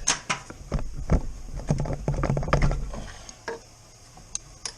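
Irregular clicks, knocks and light clatter from hands and tools working on the car's engine, busy for about three seconds and then only a few scattered clicks.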